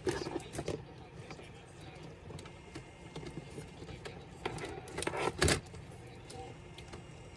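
Small clicks and clattering knocks of a laptop's parts and hand tools being handled during disassembly, with a cluster of louder knocks about five seconds in.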